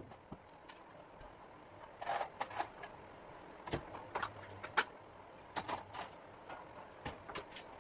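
Tools and metal parts clinking and tapping in scattered short clusters of sharp knocks, about one cluster every second or so.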